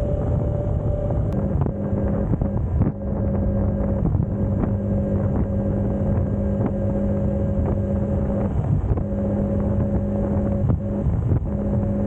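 Suzuki V-Strom 250's parallel-twin engine running at a steady cruising pitch while riding, with wind buffeting the microphone. The engine note drops out briefly about three seconds in, again near nine seconds and once more shortly after.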